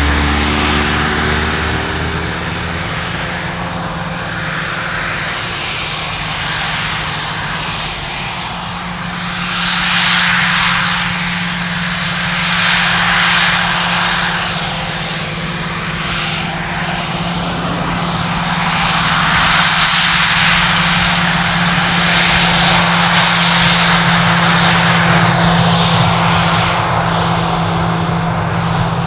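Fixed-wing aircraft engines running: a loud, continuous drone with a steady low hum under a rushing noise that swells and fades, growing louder over the last third.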